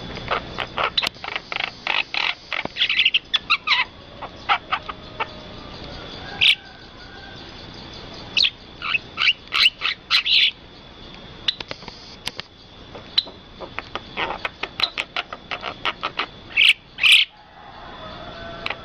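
Birds calling in quick runs of short, sharp chirps, with brief pauses between the runs, over a steady thin high tone.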